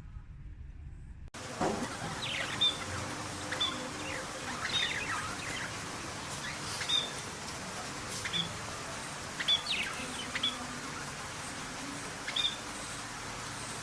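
Small birds chirping: short, high chirps about once a second over a steady outdoor hiss. They start abruptly about a second in, after a low rumble.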